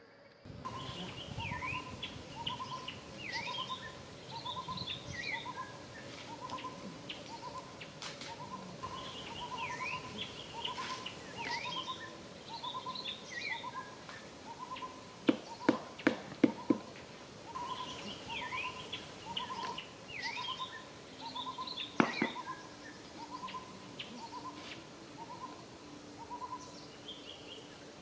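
Forest birdsong: one bird repeats a short hooting note evenly, about one and a half times a second, while other birds chirp higher with quick falling whistles. Midway comes a quick run of four sharp snaps, then one more a few seconds later.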